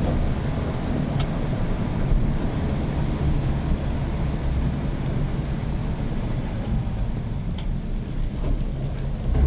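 Old Suzuki Katana driving steadily: a low engine drone under a constant rush of tyre and wind noise, with a few faint clicks.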